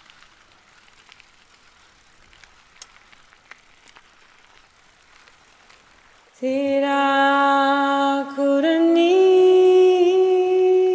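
Faint crackling and scattered small clicks for about six seconds, then a loud held hummed note that steps up to a higher held note about two seconds later, the start of a song.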